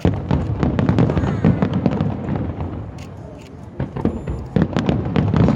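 Fireworks display: dense volleys of sharp bangs and crackles, a busy run in the first two seconds or so, a brief lull, then another cluster near the end.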